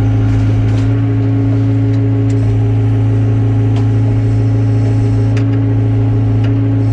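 Excavator's diesel engine running at a steady pitch, a constant low hum with a few faint clicks.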